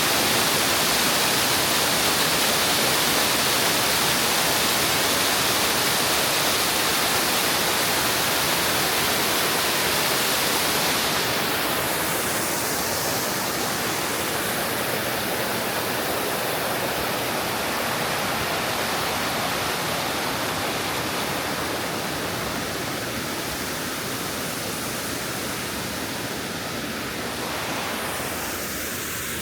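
Steady rush of falling water from a mountain-gorge waterfall, dropping a little in loudness after about ten seconds.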